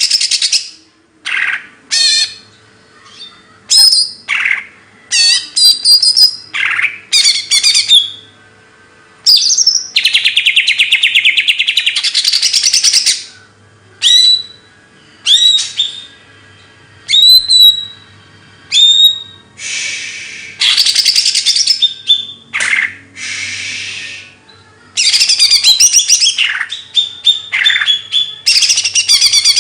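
A songbird singing loud phrases of rapid, high chattering trills, each a second or two long, broken by short pauses. In between come a few runs of short, clipped whistled notes, about one a second.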